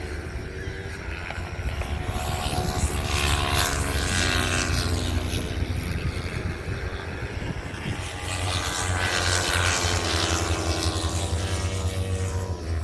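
Racing motorcycles passing on the track, their engines rising and falling in pitch as they go by, with two louder swells as bikes pass close.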